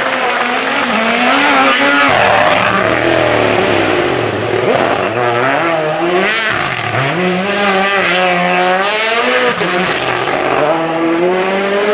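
Rally car engine at full throttle, its pitch climbing and dropping repeatedly as it revs through the gears, lifts and accelerates again, with deep dips about four seconds and about seven seconds in.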